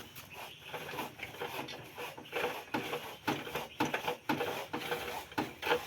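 Irregular rubbing and scraping strokes, two or three a second, from hand work on a motorcycle's front tyre during a puncture repair.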